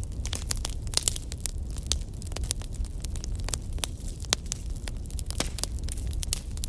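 Campfire of burning firewood crackling, with frequent irregular sharp pops and snaps over a steady low rumble of the flames.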